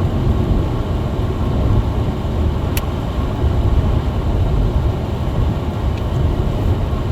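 Steady low rumble of a small front-wheel-drive car driving on a snowy road, heard from inside the cabin: engine and tyre noise, with one brief click about three seconds in.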